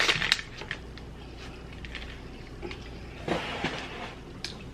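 Takeout food and its packaging being handled: a quick cluster of crackling clicks at the start, another rustling crackle about three and a half seconds in, and a single click near the end.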